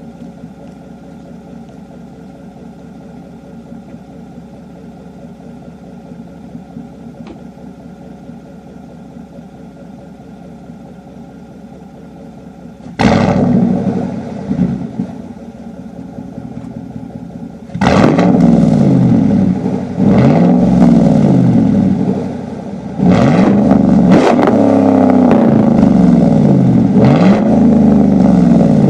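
Chevy 5.3 L V8 (L83) exhaust through a 3-inch single straight pipe with no muffler: a steady low idle drone, then about halfway through a sudden loud burst of throttle. It then accelerates hard, the pitch climbing and dropping back several times as the automatic transmission upshifts.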